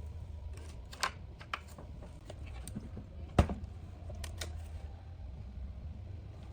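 Light, irregular clicks and taps of small metal parts and hand tools being handled during workshop repair, with one sharper knock about three and a half seconds in. A steady low hum runs underneath.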